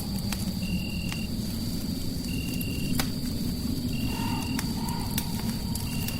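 Layered ambience: a fireplace crackling with scattered sharp pops, the loudest about three seconds in, over a steady low rumble and hiss. A steady high tone runs beneath, and a short high chirp repeats about every second and a half to two seconds, with two brief warbling calls near the end.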